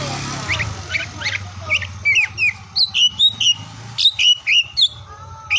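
Oriental magpie-robin (kacer) singing: a fast run of short, sharply bending whistled notes, growing denser and louder about two seconds in.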